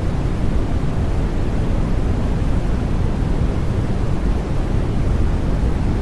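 Steady low, rumbling noise with its energy in the bass and little treble, like pink or brown noise, even and unchanging.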